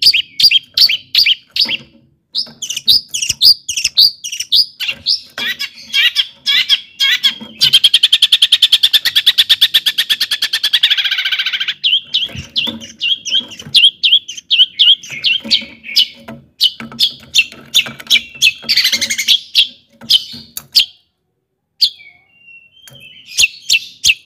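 Long-tailed shrike (cendet) singing a loud, fast string of sharp repeated chirps, with a rapid rattling trill from about eight to twelve seconds in and a short pause near the end.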